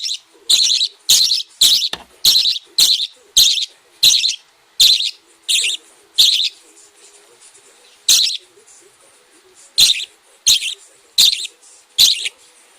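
A hungry bird chirping over and over: short, sharp high calls at about two a second, then more spaced out after about six seconds.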